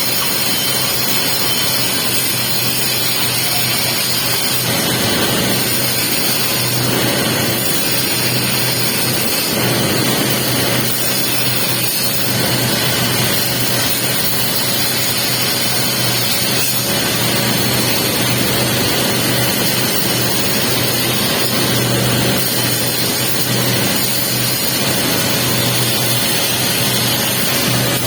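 Welding on a pipe joint during the capping pass: a steady arc hiss and crackle over a low, even machine hum, running without a break.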